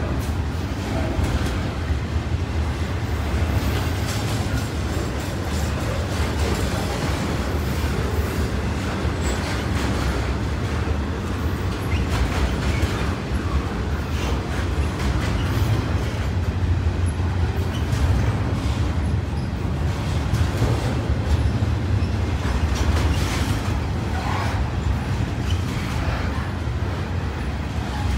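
BNSF double-stack intermodal freight train rolling past: a steady low rumble of steel wheels on the rails, with many small clicks and clacks from the cars running over the track.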